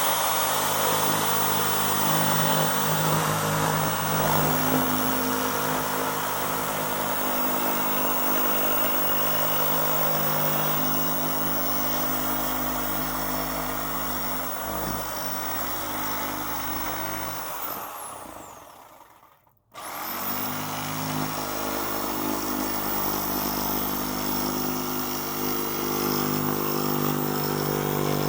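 Electric power saw running and cutting through a piece. About 18 s in it winds down with a falling whine and stops, then starts again a second or two later with a rising whine and carries on cutting.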